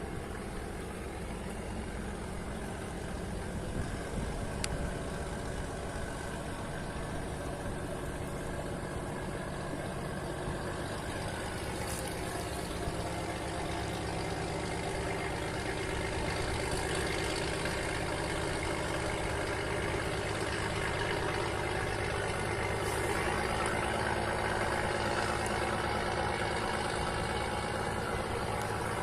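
Fishing boat engine running steadily, a continuous drone that grows a little louder partway through.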